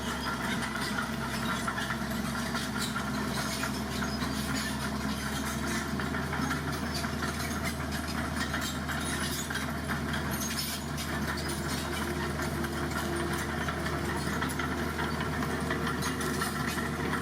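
Dump truck engine running steadily at a low, even pace.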